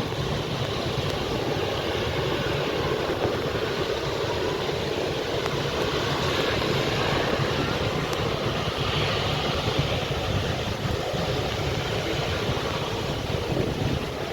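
Boeing 737 jet engines running at takeoff power, a steady rumble and hiss, mixed with wind buffeting the microphone.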